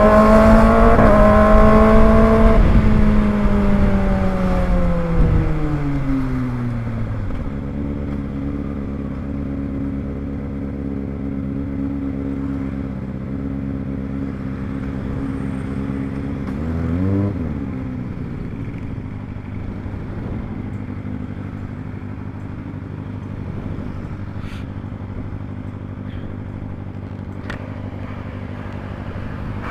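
Kawasaki ZX-25R's 250 cc inline-four engine running at high revs, then falling away over several seconds as the bike slows, settling into a steady idle. About halfway through there is one quick throttle blip that rises and drops straight back to idle.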